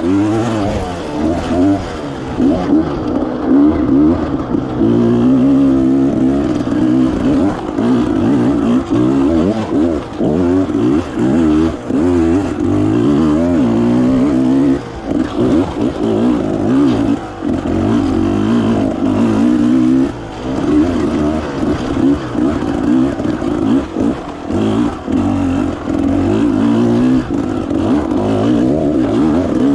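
Enduro motorcycle engine being ridden hard, its pitch rising and falling continually as the throttle is opened and shut, with frequent brief drops in loudness.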